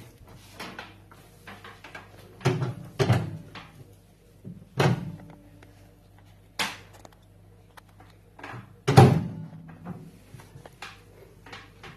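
Knocks and clunks from a microwave being handled while its inside is wiped out with a cloth, about five of them, the loudest about nine seconds in, with quieter rubbing and clicks between.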